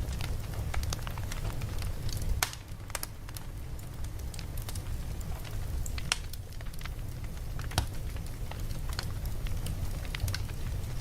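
Campfire burning: irregular crackles and pops, a few sharper snaps among them, over a steady low rumble.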